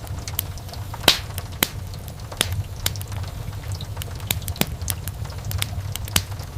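Wood fire crackling: irregular sharp pops and snaps over a steady low rumble of burning, with the loudest pop about a second in.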